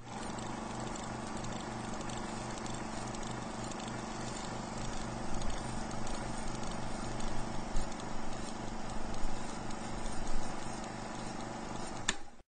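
A heat-engine lab engine running with a steady, even low beat over a constant hum, with louder irregular knocks or clatter through the second half.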